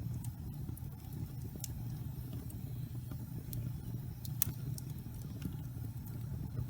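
Log fire burning in a fireplace: a steady low rumble of flames with scattered sharp crackles and pops, one louder pop a little past the middle.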